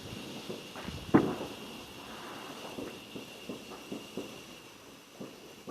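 A small firework going off: one sharp bang about a second in, then scattered faint pops.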